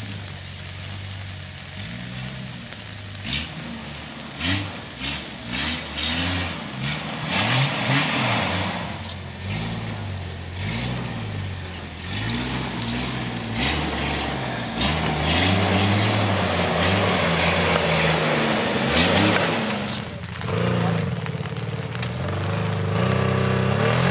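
Off-road 4x4's engine revving up and dropping back again and again as it climbs a muddy, rocky trial section, with sharp knocks here and there.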